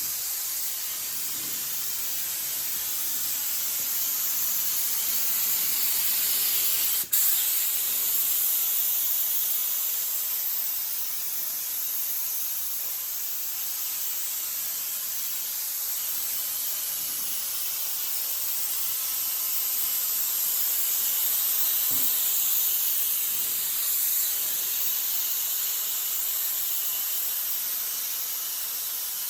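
3M Accuspray spray gun with a 1.8 tip hissing steadily as it sprays high-build urethane primer. There is a brief break with a click about seven seconds in, where the trigger is let off and pulled again.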